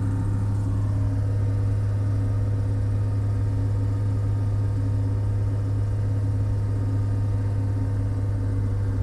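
Diesel engine of a log loader idling steadily, a constant low hum heard from inside the machine's cab.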